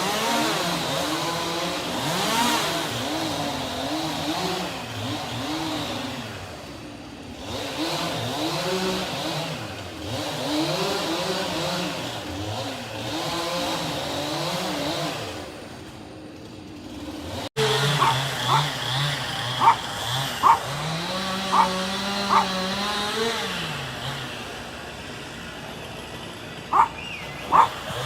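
Small engine revving up and down over and over, as if working under load. After an abrupt cut, a steadier engine hum rises and falls once, with a dog yipping in short sharp bursts near the end.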